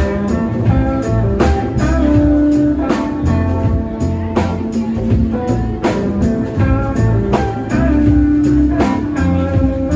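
Live rock band playing an instrumental stretch: electric guitar lines over bass and a steady drum-kit beat.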